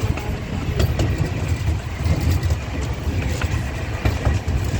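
A train ride car rolling along its track, heard from on board: a steady low rumble with irregular clicks and knocks.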